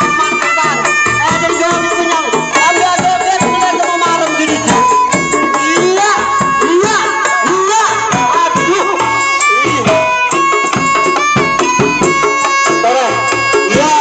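Traditional folk music: a wavering melodic line over held tones and busy, rapid percussion, with no break.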